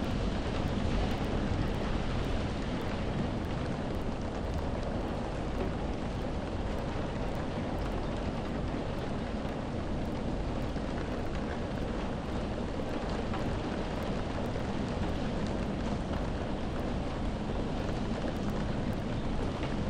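Steady rain: an even hiss with a deep rumble underneath and no breaks or distinct drops.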